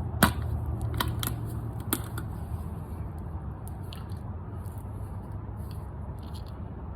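A few sharp plastic clicks and crinkles in the first two seconds, the loudest about a quarter second in, as a plastic motor oil bottle is handled and its cap and seal are opened, over a steady low hum.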